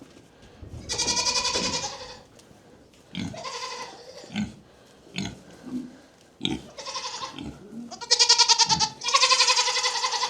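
Goats bleating in a barn: about five quavering calls, the last two near the end the loudest and almost back to back, with a few low knocks between them.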